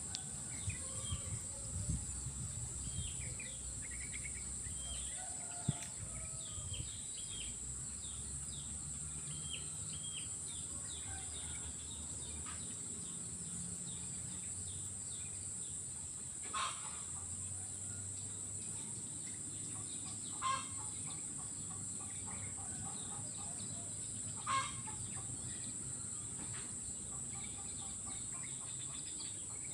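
Swamp ambience: a steady high-pitched insect drone with many small bird chirps, mostly in the first half, and three short, louder calls about four seconds apart in the second half.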